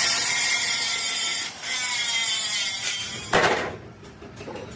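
Loud, harsh mechanical noise with a high whine running through it, broken by a brief dip about a second and a half in, stopping after about three seconds, followed by a short loud burst.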